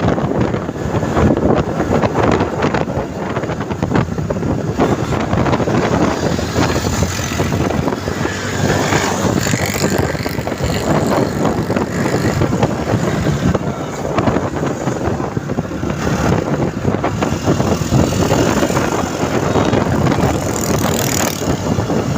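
Motorcycle riding along a road: steady engine and road noise, with wind rushing over the microphone.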